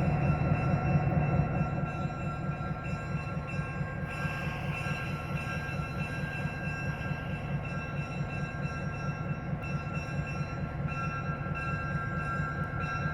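Train running: a steady low rumble with a fast pulse, and a few steady high tones over it, a little louder in the first second or two.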